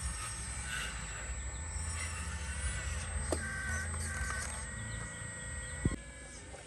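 Birds chirping over a steady low rumble, with a sharp click near the end.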